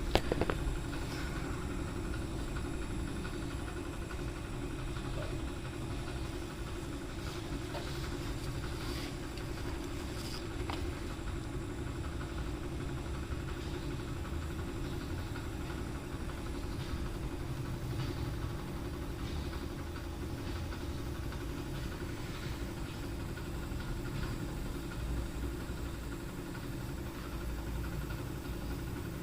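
Suzuki Alto engine idling steadily, with one sharp knock right at the start.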